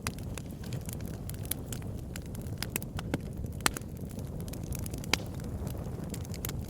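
Campfire crackling: irregular sharp pops and snaps of burning wood, a couple of them louder, over a steady low rumble.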